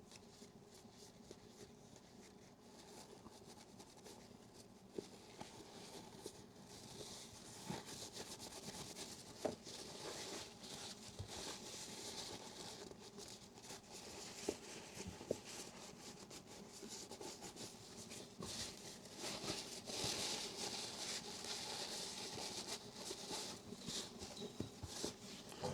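Faint rustling and rubbing from hands handling small objects, with scattered light clicks and taps. It grows a little louder and hissier about a quarter of the way in.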